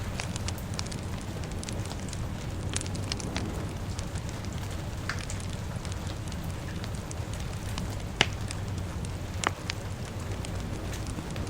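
Wood fire crackling, with scattered small pops and two louder snaps in the second half, over a steady low rumble of rain.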